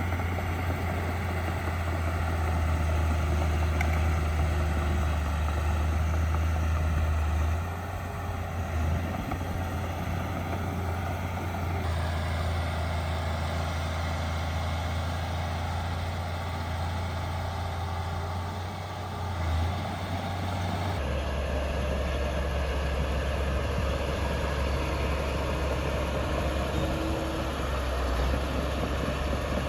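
Heavy diesel engine of earthmoving machinery running steadily with a deep low drone. Its tone shifts abruptly twice.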